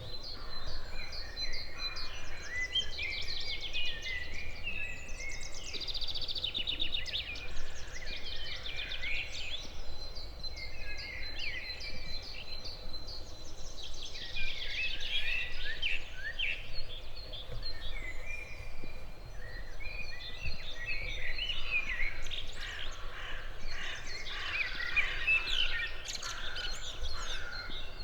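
Several songbirds singing at once in an early-morning chorus, with overlapping chirps, trills and whistled phrases one after another, over a low steady background rumble.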